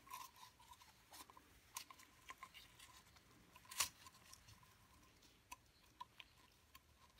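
Faint, scattered small clicks and ticks from hands handling the oil filter cap and its rubber O-rings while oiling them, with one louder click a little under four seconds in.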